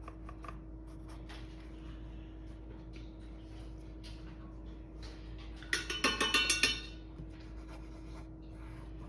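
A paintbrush rattled against the inside of a glass rinse cup makes a quick run of light clinks for about a second, a little past halfway. Faint scratching and a steady low hum sit underneath.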